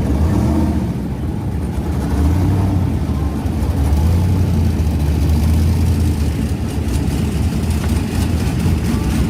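Drag-racing pickup truck engine running with a deep, steady drone, louder for several seconds in the middle.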